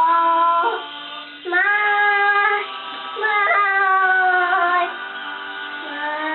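Cartoon song playing: high, bright cartoon voices sing long held notes over music. There are three held phrases, then a quieter one near the end.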